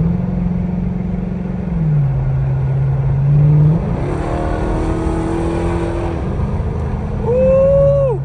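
Car engine running while the car is driven; the engine's pitch rises and drops as it speeds up and eases off. Near the end, a short high-pitched tone sounds and falls away sharply.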